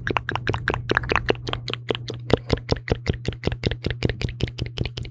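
Close-miked ASMR mouth sounds: a rapid, continuous run of wet clicks and pops, several a second.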